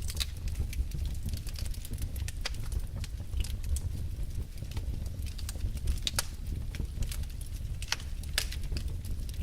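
Wood fire burning in a fireplace: a low steady rumble with irregular sharp pops and crackles from the burning logs.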